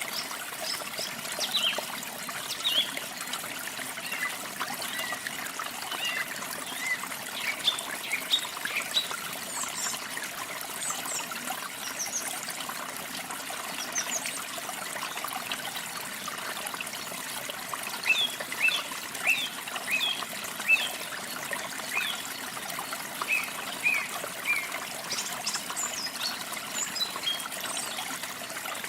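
Water trickling steadily, like a small stream, with small birds chirping over it in short, scattered calls that come in several spells.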